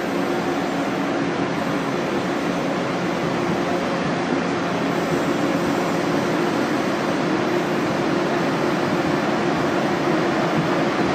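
Train noise: a steady rushing sound with a low steady hum, growing slightly louder.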